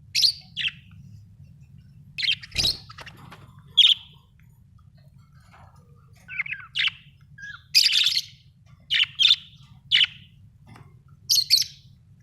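Pet budgerigars chirping in short, sharp bursts, singly and in quick pairs at irregular intervals, over a faint steady low hum. There is a light knock about two and a half seconds in.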